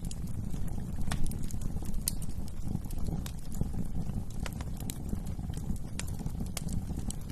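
Wood fire burning in a fireplace: a steady low rumble of flames with frequent sharp, irregular crackles and pops of burning wood.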